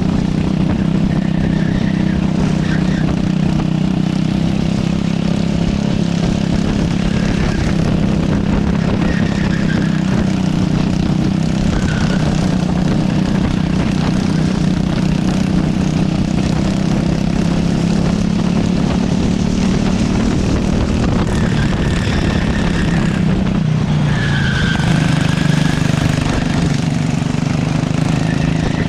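Racing kart engine running hard under lap load, its steady drone dipping briefly and climbing again near the end. Short tyre squeals come through several times as the kart corners.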